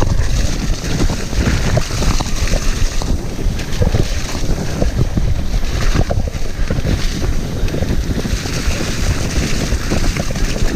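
Mountain bike ridden over rough, muddy trail: a steady rumble with wind buffeting the microphone, and many small knocks and rattles from the bike over the ground.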